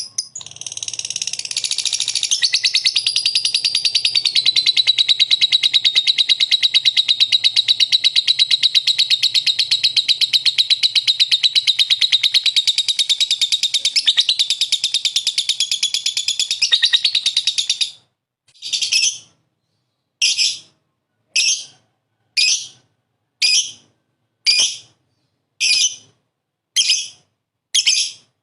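Lovebird giving a long, very fast, unbroken chattering trill for about seventeen seconds. It then switches to short separate calls about once a second, nine or so in a row.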